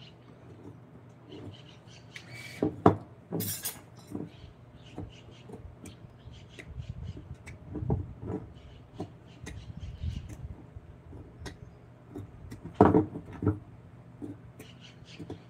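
Irregular taps, knocks and short scrapes of hand work at a workbench, over a steady low hum. A brief harsh scrape comes about three and a half seconds in, and a cluster of louder knocks comes near the end.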